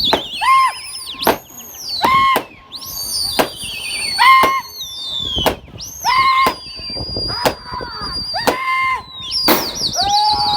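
Repeated shrill whistling, many overlapping pitched whistles rising and falling, with several sharp cracks between them: pigeon flyers whistling to drive their flock up into the air.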